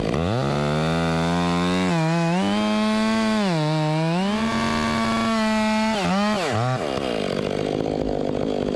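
Two-stroke chainsaw revving up from idle and cutting wood at full throttle, its pitch sagging twice as the chain bites under load. The throttle is released near the end and the pitch drops away.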